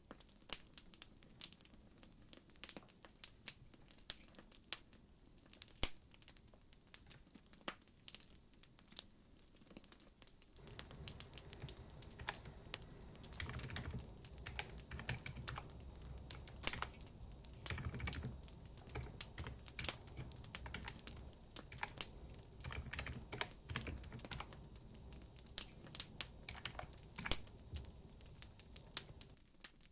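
Wood fire crackling, with irregular sharp pops and snaps, joined about ten seconds in by a low rumble from the burning fire.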